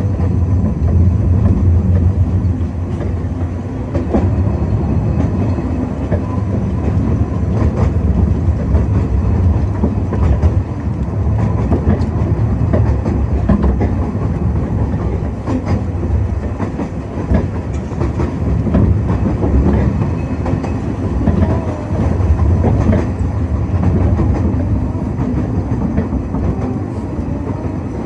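Narrow-gauge railway train running, with a steady low rumble and frequent irregular clicks of the wheels over the rail joints.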